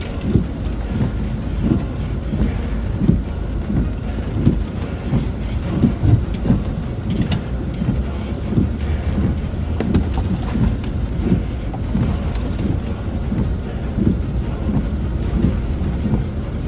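Cabin noise inside a Land Rover Discovery 4 crawling in low range over a rocky off-road track: a steady low rumble from the engine and drivetrain, with frequent irregular thumps as the vehicle jolts over rocks.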